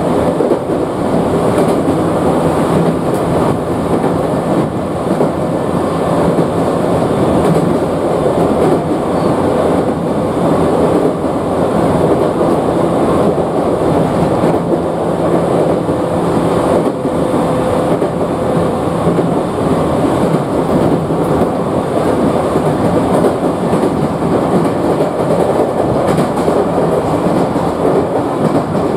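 Chichibu Railway 7500 series electric train heard from inside the passenger car while running: steady wheel-on-rail and running-gear noise with a low steady hum.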